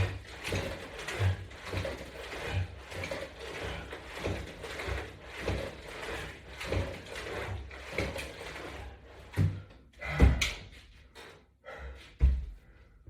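Resistance-band exercise equipment clicking and rattling in a steady rhythm, about three strokes every two seconds, one with each repetition. The rhythm stops about nine seconds in, followed by a few separate thumps.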